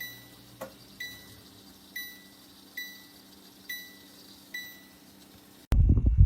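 An appliance control panel beeps six times, about once a second, each a short, high electronic tone, over a steady low hum. Near the end, a loud low rumble starts suddenly.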